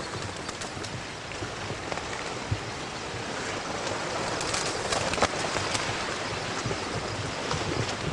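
A large flock of ducks coming down into flooded timber: a dense, steady rush of wings and splashing water full of short pattering splashes, with bird calls mixed in.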